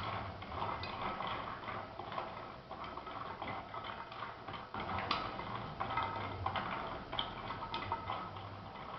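Pinhão seeds rattling and clicking against a dry cooking pot as they are stirred with a kitchen spoon: a continual, irregular run of light clicks and knocks.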